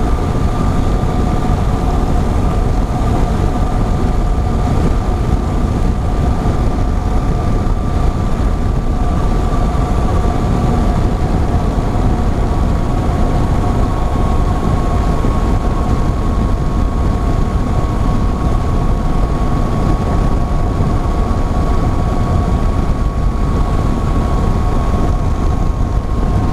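Yamaha MT-09 inline-three motorcycle cruising at steady speed: wind rushing over the helmet microphone, with a steady engine whine that drifts slightly lower in pitch.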